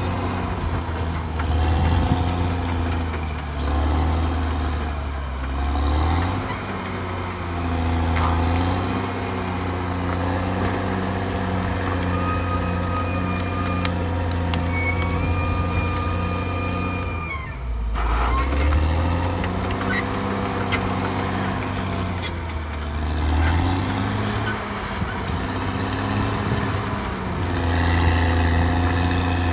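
Caterpillar D6R XL bulldozer's diesel engine working under varying load, its revs rising and falling as it pushes. Short squealing tones come and go over it. About halfway through the engine note sags sharply for a moment, then picks back up.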